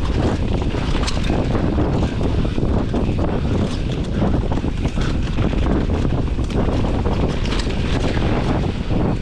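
Wind rushing over the camera microphone as a Commencal Meta AM 29 mountain bike descends a dirt trail at speed, with tyre roar and frequent clattering and chain rattle from the bike over rough ground.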